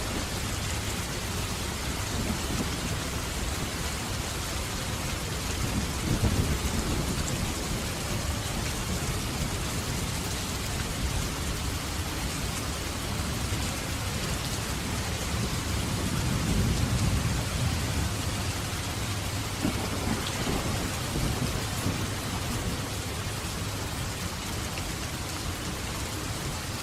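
Steady heavy rain falling, with low rolling thunder that swells about six seconds in and again for a couple of seconds past the middle.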